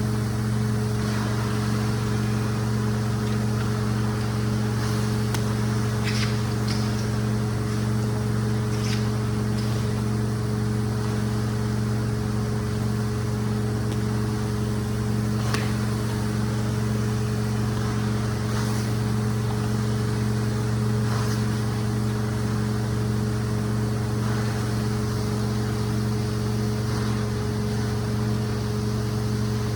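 Rug-cleaning machine running steadily: a constant motor drone with a fixed-pitch hum over a hiss, with short swishes now and then.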